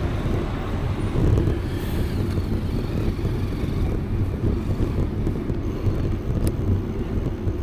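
Wind rushing over the microphone of a camera on a moving bicycle: a steady low rumble.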